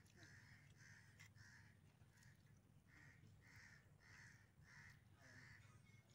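Faint bird calls repeating in a steady series, nearly two a second, over a low steady hum.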